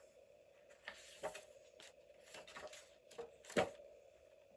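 Paper and journal pages being handled on a desk: a few soft rustles and light taps, with the sharpest tap about three and a half seconds in.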